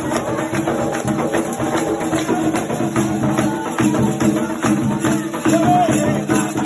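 Candomblé ritual music: drums and rattling percussion keeping a dense, steady beat, with voices singing over it.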